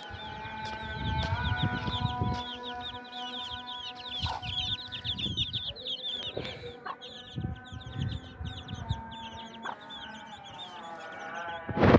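Newly hatched chicks peeping rapidly in a dense run of short, high, downward-sliding chirps, with a hen clucking low beneath them. A sudden loud sound comes near the end.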